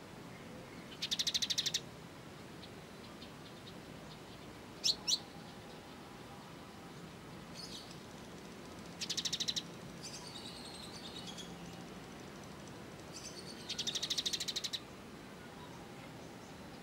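Small songbirds calling, a sunbird ('kolibri ninja') tutor recording: three short, fast, high trills of about a second each, a quick pair of sharp chirps in the middle, and softer twittering between them, over a faint steady hiss.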